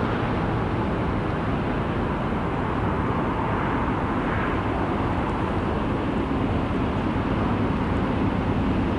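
Steady rumbling noise of an approaching freight train still some way off, with no horn sounding.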